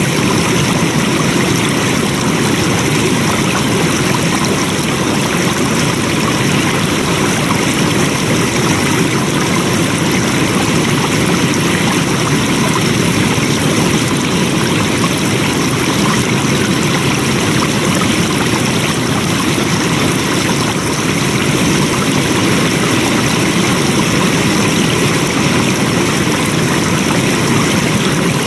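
Flowing water rushing steadily, an even, unchanging wash of noise.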